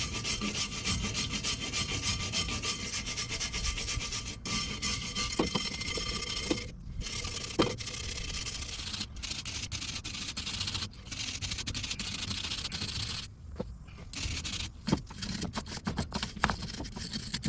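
A brush scrubbing back and forth on the car's sheet metal, a steady rasping rub broken by short pauses.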